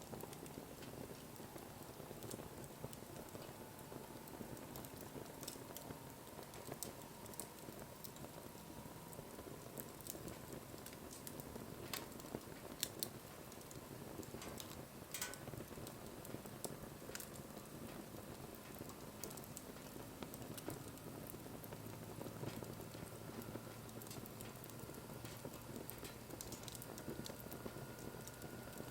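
Wood fire crackling: scattered sharp pops and snaps over a soft, steady hiss.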